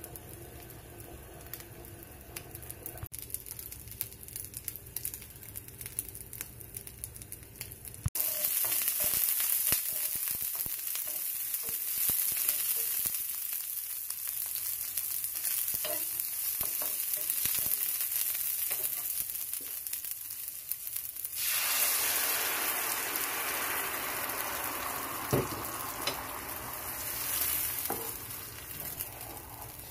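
Sliced onion frying in hot oil in a frying pan, a steady sizzle that starts suddenly about a quarter of the way in after a few quieter seconds. Later, green tomato salsa goes into the hot oil and the sizzle grows fuller and louder, then eases as it is stirred, with a single knock against the pan along the way.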